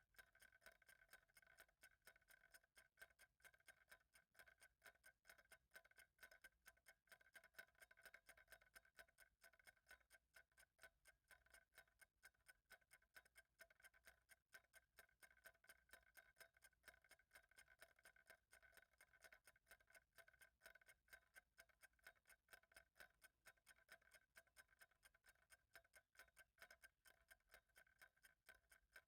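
Faint clock ticking in an even, unbroken rhythm.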